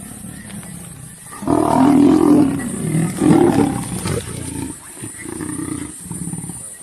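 Lions and a leopard fighting, with big-cat calls. They grow loud about a second and a half in, stay loudest for about three seconds, then go on as quieter repeated calls.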